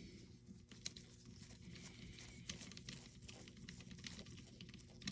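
Faint small clicks and a light rustle from small parts being handled on a workbench, over a steady low electrical hum.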